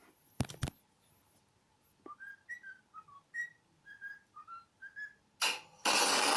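A bird-like whistled tune of about a dozen short chirping notes, each sliding up or down in pitch. It comes after two sharp clicks and is cut off by a sudden loud burst of noise.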